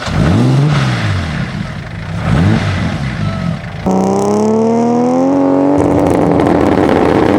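Toyota Aristo's turbocharged 3.1-litre straight-six, just started, blipped twice and then held at raised revs. The pitch climbs slightly for about two seconds, then holds steady.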